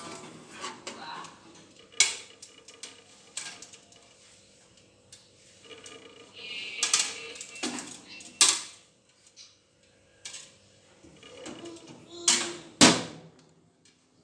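Household items being handled: a string of sharp knocks and clinks, like dishes and objects being set down and moved, with a brief high voice-like sound about seven seconds in.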